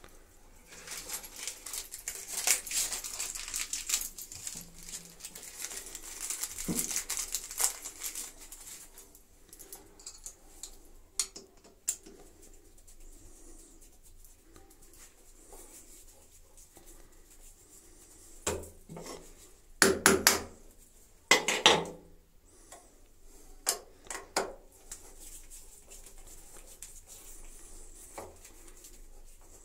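Metal fittings and hand tools being handled and set down: several seconds of rustling and scraping, then a scatter of sharp clinks and knocks, the loudest a quick cluster about twenty seconds in.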